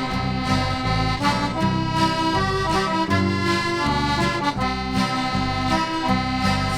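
Instrumental break in a Newfoundland-Labrador folk song: an accordion plays the melody in steady held notes over a bass and rhythm accompaniment.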